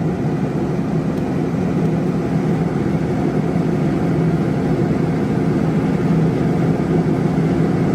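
Steady low machine hum with no change in level, the drone of a running motor or fan.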